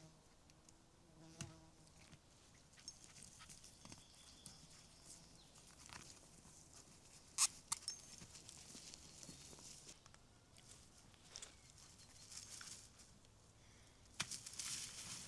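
Faint, scattered sharp clicks and snaps. The sharpest comes about seven and a half seconds in, and a denser run of clicks starts near the end.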